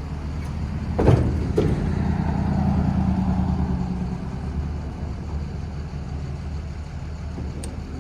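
Steady low rumble of a box truck's diesel engine running, with a sharp knock about a second in, a lighter one just after, and a steady hum for a couple of seconds that fades away.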